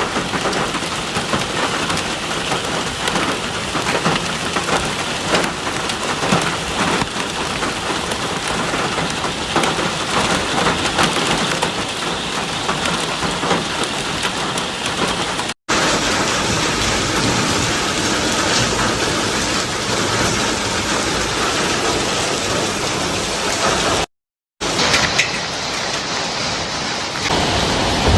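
Heavy rain mixed with dense hail falling and striking hard surfaces: a loud, steady hiss packed with sharp ticks of hailstones. The sound cuts out abruptly twice, once briefly about halfway through and for about half a second near the end.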